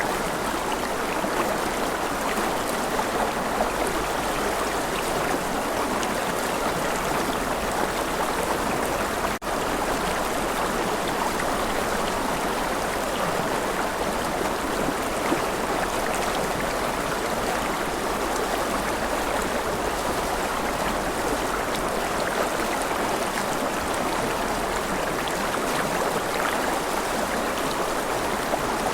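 Flowing river water, a steady even rush, with a momentary dropout about nine seconds in.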